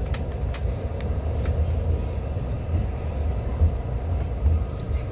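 Haramain high-speed electric train running into a station, heard from inside the carriage: a steady low rumble with a few faint clicks.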